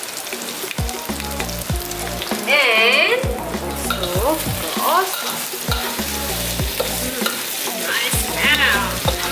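Thick beef rendang sizzling as it fries down in a wok, stirred with a metal spatula that scrapes and knocks against the pan. A loud warbling tone rises over it about two and a half seconds in, and a fainter one comes near the end.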